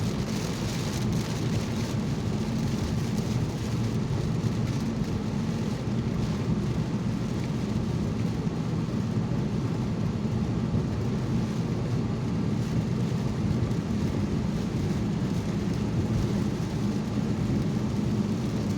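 Steady road noise inside a car driving in the rain: tyres on a wet road, engine and rain on the car, at an even level throughout.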